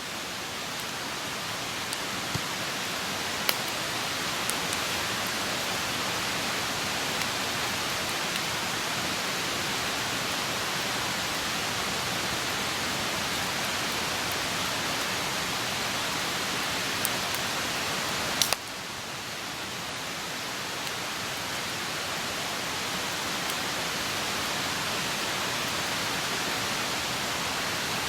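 Wood campfire burning with a steady rushing hiss and a few sharp pops. After a loud pop about 18 seconds in, the hiss drops suddenly and slowly builds back up.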